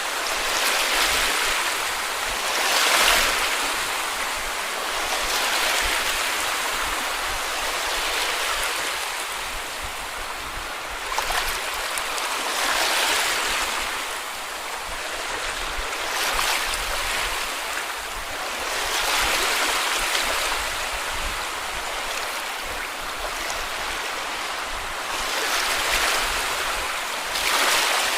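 Sea waves washing onto a beach: a steady rush of surf that swells and fades every few seconds as each wave comes in.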